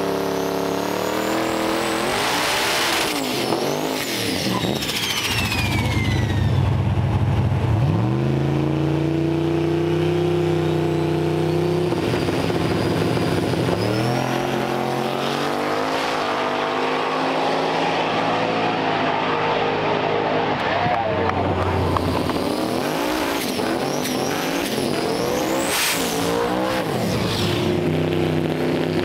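Drag racing engines revving and running at full throttle, their pitch climbing and then dropping back several times over the stretch, with faint high whines sweeping across.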